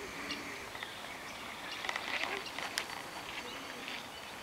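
Birds chirping and calling in short, scattered notes over a faint outdoor hiss.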